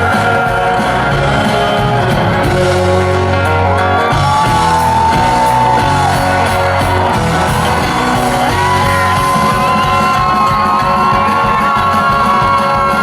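Country band playing live, with a lead line holding long notes that slide up and down over the steady band.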